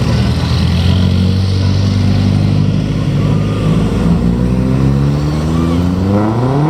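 M3 half-track's White 160AX straight-six petrol engine running steadily, then revving up over roughly the last second as it pulls away, its pitch rising.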